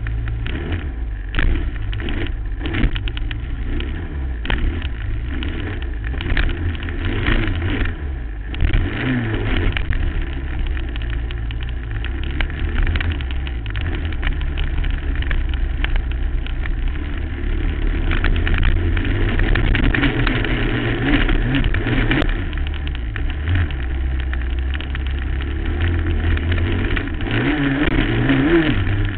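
2008 Suzuki LT-R450 quad's 450 cc single-cylinder four-stroke engine running hard, its revs rising and falling as it is throttled on and off. It revs up sharply about nine seconds in and again near the end.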